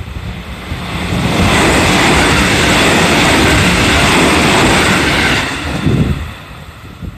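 A JR 313 series electric train passing over a level crossing: the rush of wheels on rail swells about a second in, stays loud for about four seconds, then fades away.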